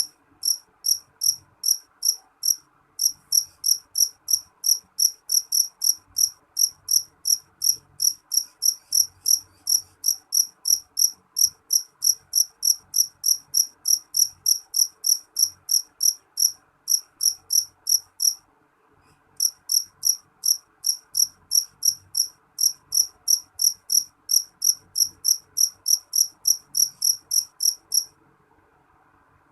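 A cricket chirping steadily at about three high-pitched chirps a second, pausing briefly about 18 seconds in and again near the end.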